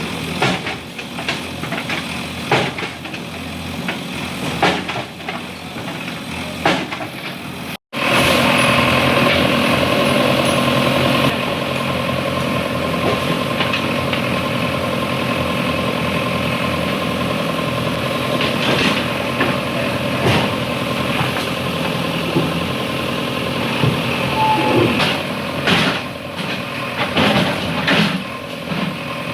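Heavy diesel engine of a demolition machine running steadily, with scattered knocks and clatter. The sound drops out for a moment about eight seconds in, and after that the engine is louder and steadier.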